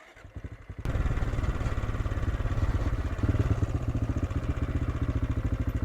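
AJP PR7's single-cylinder engine running with an even pulse, faint at first and suddenly louder about a second in, then holding steady.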